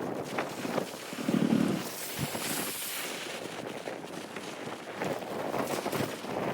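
Steady rush of a nearby waterfall with wind on the microphone, broken by a few short knocks and a louder low thump about a second and a half in.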